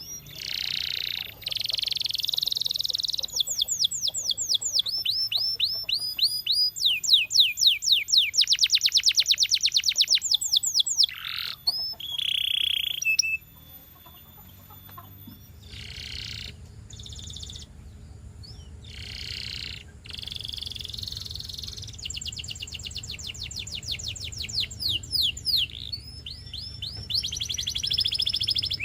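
Canary singing: fast trills of repeated, sweeping high notes, each trill running a second or two before the bird switches to another, with a short pause about halfway through.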